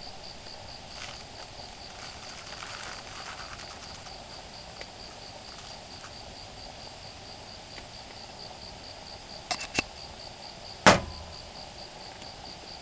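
Insects trilling in a steady, fast-pulsing high chirp over an outdoor background hum. Two light clicks come about nine and a half seconds in, then a single loud metallic clank with a brief ring, like camp cookware knocking.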